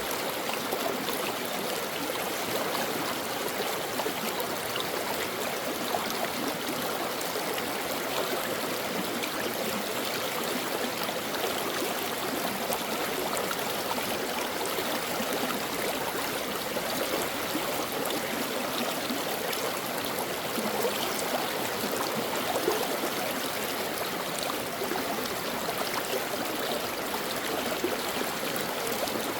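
A brook flowing steadily, its water rushing and babbling without a break.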